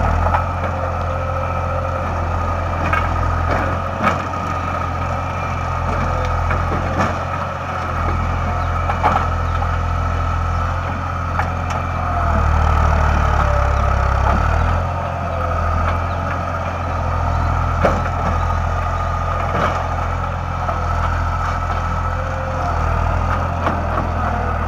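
Steady low mechanical hum with a faint high whine, broken by scattered sharp clicks and knocks.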